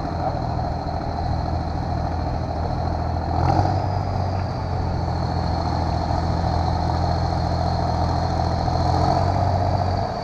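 An engine running steadily at a low pitch, rising a little about three and a half seconds in and cutting off near the end, with a thin high whine above it.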